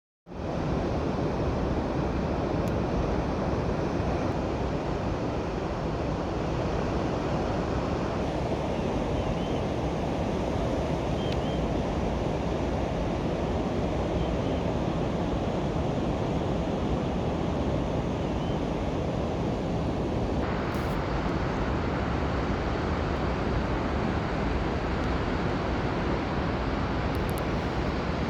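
Steady rushing noise. It thins abruptly in its upper range about eight seconds in and comes back fuller about twenty seconds in, with a few faint high chirps in between.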